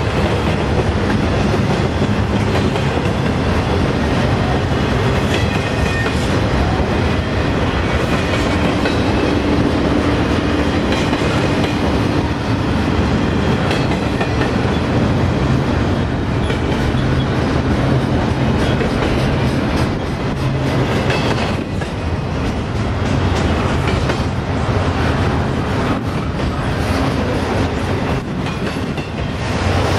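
Loaded double-stack intermodal well cars of a freight train rolling past close by: a steady rumble of steel wheels on rail, with clicking as the wheels pass over the rail joints.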